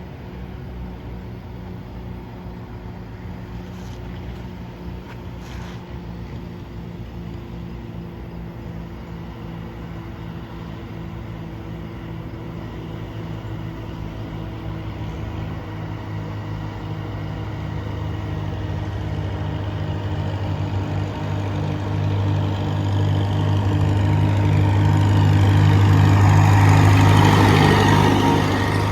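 Vintage tractor engine running with a steady, pulsing beat, growing louder as it draws near and loudest near the end.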